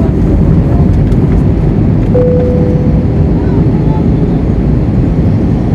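Airbus A321 jet engines giving a loud, steady, low rumble, with a brief steady whine about two seconds in.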